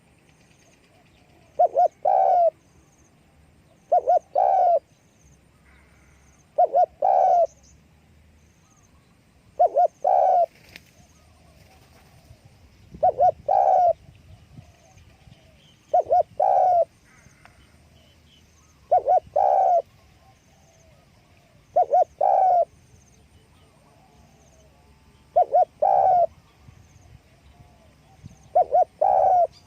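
Spotted dove cooing, repeating its short phrase of two or three quick notes and a longer coo about ten times, every two and a half to three seconds. Faint high chirps of small birds sound between phrases.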